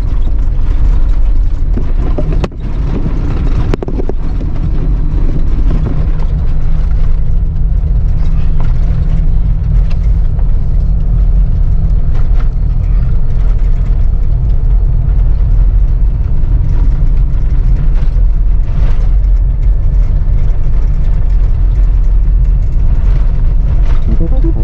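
Off-road vehicle driving over a heavily corrugated dirt road: a steady, loud low rumble with continual rattling of the body and load.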